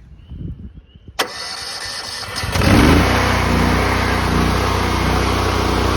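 Pressure washer engine being started: a sharp click about a second in, a short stretch of cranking, then it catches about two and a half seconds in and settles into a loud, steady run.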